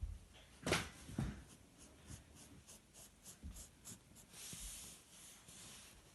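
Pencil drawing on paper: two knocks about a second in, then a run of short, quick scratchy strokes and one longer stroke a little past the middle.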